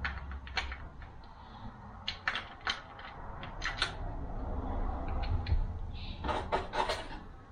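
42RE automatic transmission parts clicking and clacking as they are handled and fitted together, a drum assembly being set in place. Scattered single clicks, then a quicker run of clicks about six to seven seconds in.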